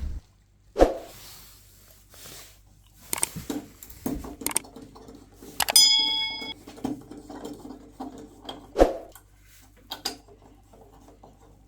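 Handling noises of someone working around boiler pipework: scattered knocks, taps and rubbing, with a couple of sharper thumps and one short bright metallic clink that rings briefly about six seconds in. A faint steady low hum runs underneath.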